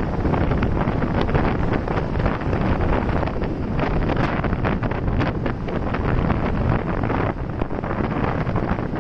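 Wind buffeting a microphone on a moving motorcycle: a steady, gusty rush of noise that covers the machine's own sound.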